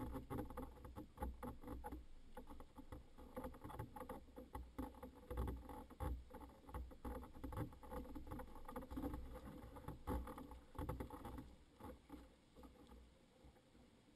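Water splashing and lapping against a small boat, a faint, irregular patter of little slaps and drips over a low rumble, easing off near the end.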